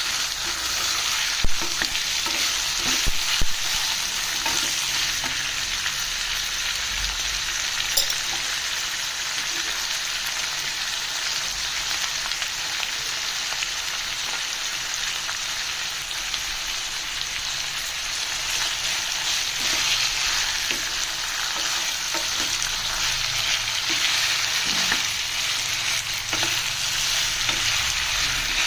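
Chicken pieces frying in hot oil with browned onions, sizzling steadily, with a few sharp knocks of the stirring spoon against the pan near the start and once more about eight seconds in.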